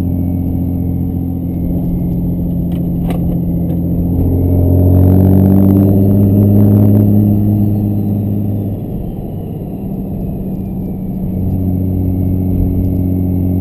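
Compound-turbocharged 5.9 Cummins inline-six turbodiesel running, heard from the cab. It revs up about four seconds in, with a burst of hiss around five seconds, falls off and weakens around nine seconds, then runs steadily again. The stumble is a sign of air drawn into the fuel from a nearly empty tank, which the driver blames.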